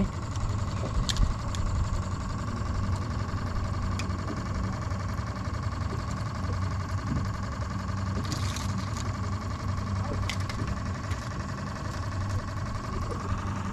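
A boat's motor running steadily, a low hum with a constant higher whine, and a few light clicks and knocks scattered through.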